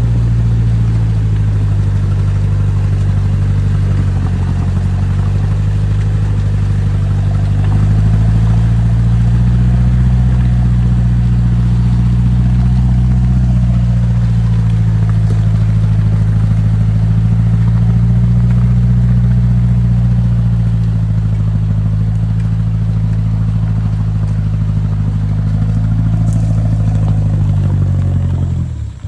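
Off-road 4x4 vehicle's engine running at low revs, its pitch slowly rising and falling with the throttle, then dropping away just at the end.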